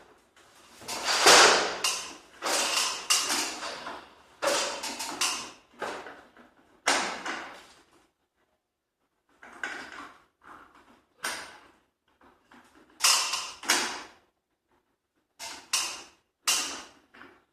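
A run of short scraping and clattering noises from a mechanism being worked, with a pause of a second or so just past the middle.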